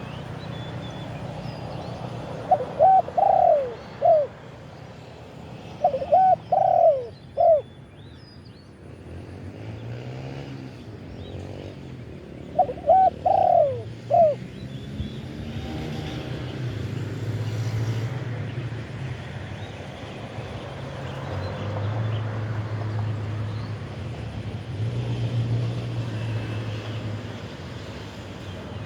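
Spotted dove cooing: three short phrases of several notes each, a few seconds apart, in the first half. A low steady hum like a distant engine runs underneath in the second half.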